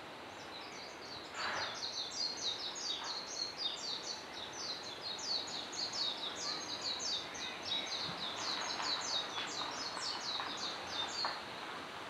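A songbird singing a long, rapid run of high, thin notes, several a second, that stops shortly before the end, over a steady hiss of outdoor background noise.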